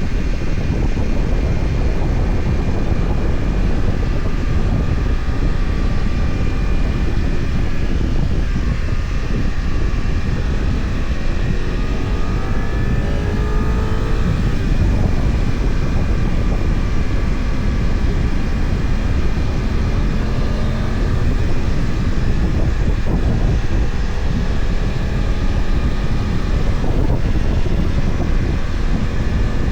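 BMW F900XR motorcycle's parallel-twin engine running under way, heard on board with wind and road noise. The engine note rises and falls a few times around the middle.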